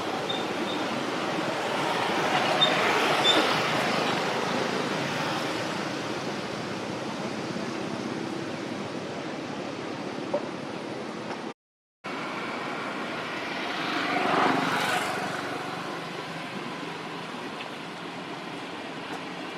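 Steady outdoor background noise, like passing road traffic, swelling twice as something goes by, about two to four seconds in and again about fourteen seconds in. The sound drops out completely for about half a second a little past halfway.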